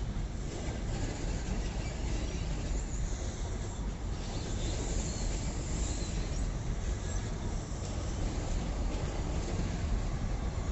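A train running, a steady low rumble with a faint high hiss above it.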